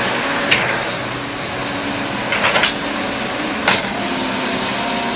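Backhoe excavator working dirt with its engine running steadily, broken by sharp metallic clanks about half a second in, a quick cluster of them around two and a half seconds, and one more near four seconds.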